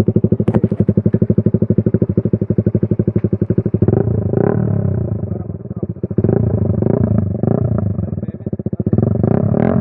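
Motorcycle fitted with an aftermarket Purbalingga-made exhaust (knalpot), idling with a loud, even beat of about nine pulses a second, then revved up and down from about four seconds in.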